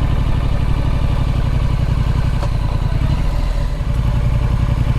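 Triumph Street Scrambler's 900 cc parallel-twin engine running at low revs as the bike rolls slowly. It makes a steady low throb that eases briefly a little before four seconds in.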